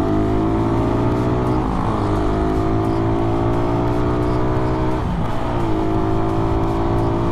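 Suzuki Raider 150 underbone's single-cylinder four-stroke engine accelerating under load through an aftermarket exhaust, its pitch climbing steadily with two upshifts, about 2 seconds and 5 seconds in, where it drops and starts climbing again.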